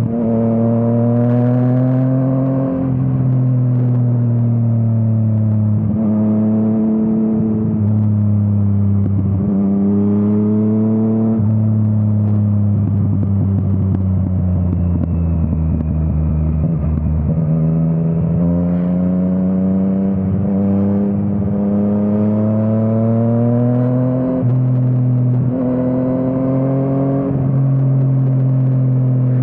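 Yamaha MT-09's three-cylinder engine through an Akrapovič exhaust, accelerating up through the gears, its pitch rising and then dropping sharply at each quick upshift. About halfway through the revs fall slowly as the bike slows. Then it pulls up through several more shifts.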